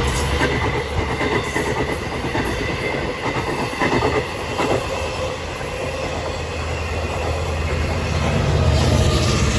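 Long Island Rail Road train passing, a steady rumble with rapid irregular clicks from the wheels over the track.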